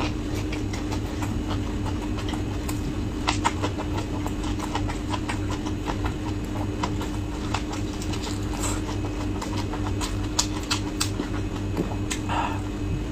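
Close-miked chewing of a flatbread wrap filled with shredded vegetables: a steady run of small wet clicks and smacks. A steady low hum runs underneath.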